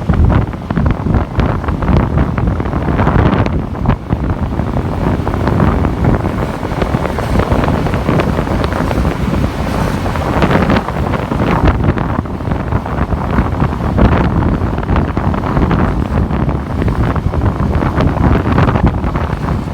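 Wind buffeting the microphone on a moving motorbike, a steady gusty rush with vehicle noise underneath.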